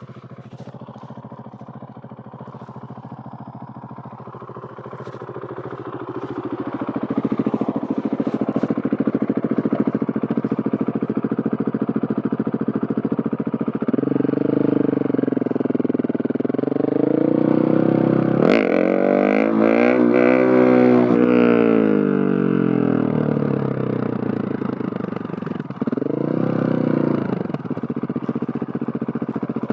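Husqvarna 701 Supermoto's single-cylinder four-stroke engine through a Leo Vince Nero stainless exhaust, ridden. It is quieter for the first few seconds, gets louder from about seven seconds in, and its pitch rises and falls as it revs up and back down, most sharply a little past the middle.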